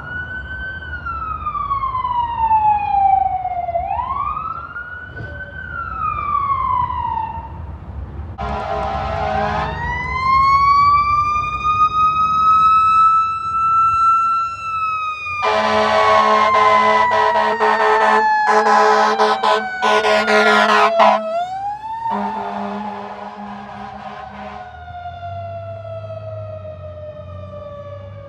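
Fire department emergency vehicles passing on a call: an electronic siren wailing up and down, then a siren that winds up and falls away slowly. Loud blasts of a fire engine horn come in three bursts, the longest about halfway through.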